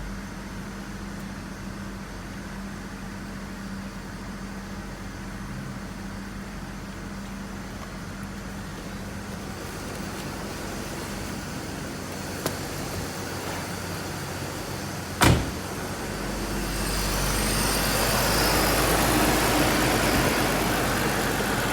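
2001 BMW 325i's straight-six engine idling after a jump start from a portable jump starter. A single sharp knock comes about 15 seconds in, and after it the engine sound becomes louder.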